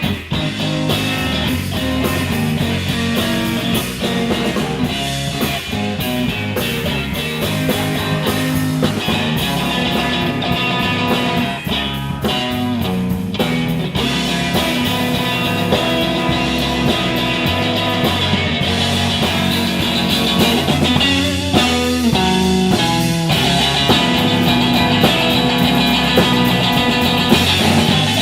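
Live blues-rock trio playing an instrumental passage with no singing: guitar over bass and drum kit.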